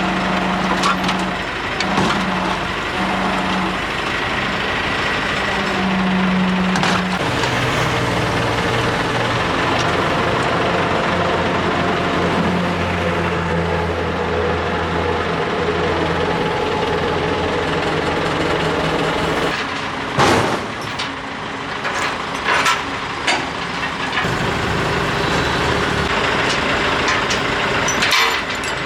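Heavy diesel engine running, its speed shifting up and down, with several sharp metallic bangs, the loudest about twenty seconds in.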